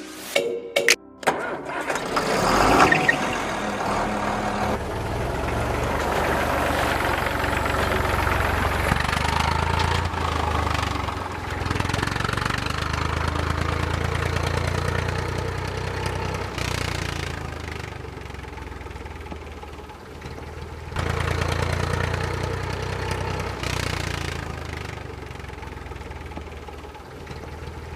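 An engine starts up and then runs steadily with a low rumble, dropping back briefly and picking up again about three-quarters of the way through.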